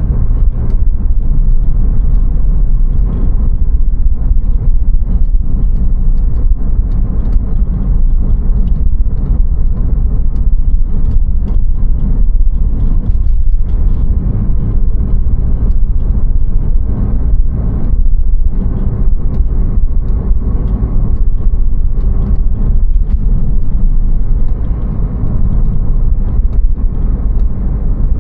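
Porsche 911 Carrera 4's water-cooled flat-six running, a steady low rumble without clear changes in revs.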